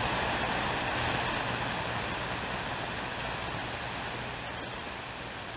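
CB radio receiver hiss: steady static on an open channel between transmissions, slowly fading.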